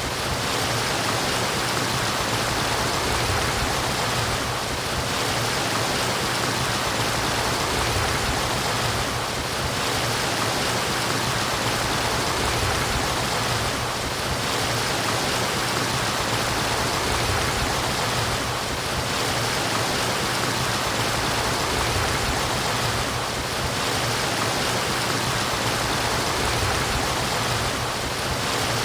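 Running water of a stream, a steady, even murmur.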